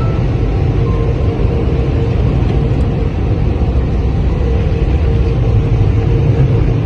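Automatic car wash running: a steady, loud low rumble with a continuous spray-like hiss over it.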